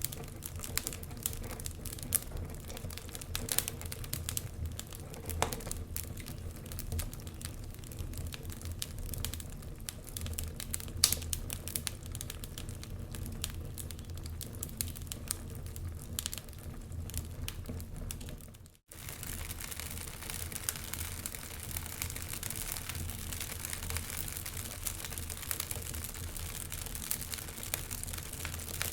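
Wood fire burning in a fireplace: irregular sharp crackles and pops over a low rumble. The sound cuts out for an instant about two-thirds of the way through, then the crackling resumes with a steadier hiss.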